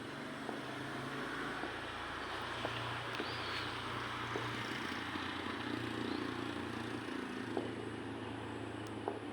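Distant jet aircraft passing high overhead, a steady broad rumble that swells slightly and eases off.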